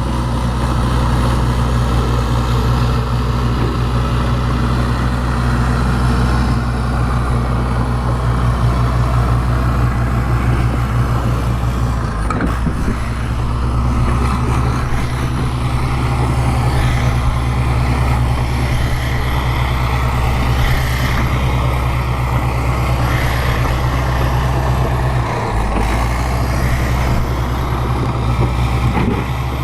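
Bulldozer's diesel engine running steadily. Its note shifts briefly about a dozen seconds in and again near the end.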